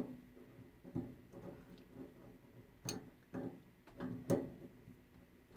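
A handful of light, scattered clicks and knocks from a faucet stem being turned and pushed into a laundry faucet body to get its threads to catch.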